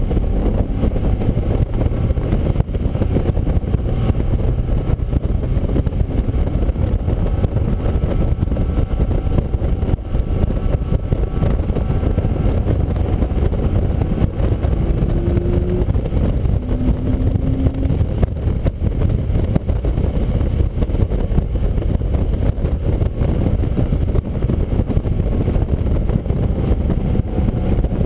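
Onboard sound of a car lapping a race track on a wet track: a steady, loud low rumble of engine, road and wind noise with no let-up.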